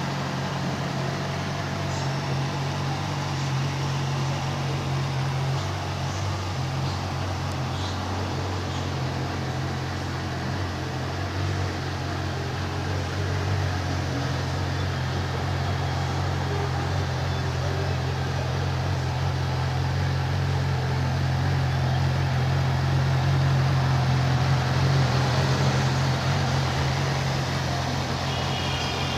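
2008 Yamaha YZF-R6's inline-four engine idling steadily, growing a little louder about three-quarters of the way through.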